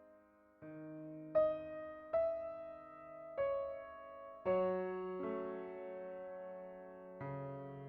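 Background music: soft, slow piano playing single notes and chords, one struck about every second and left to ring and fade.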